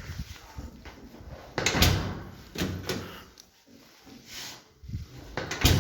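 Entry door handle and latch being worked: a series of clunks and clacks, the loudest about two seconds in and near the end.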